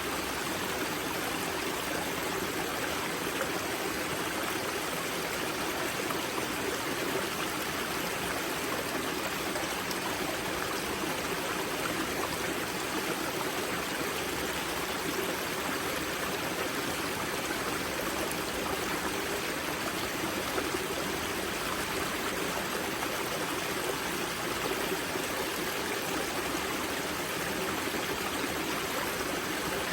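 Spring-fed mountain river rushing and splashing over rocks at its wellhead, a steady, even sound with no let-up.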